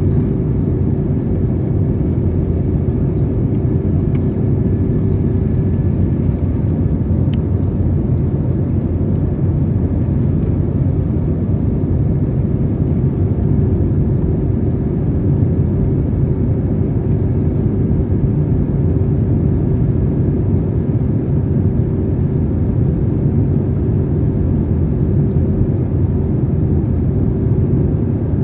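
Airliner cabin noise in flight: a steady rumble of engines and airflow with a constant hum, unchanging throughout.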